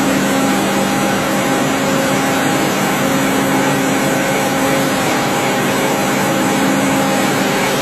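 CNC lathe running: a steady machine hum with several held tones under an even hiss, unchanging throughout.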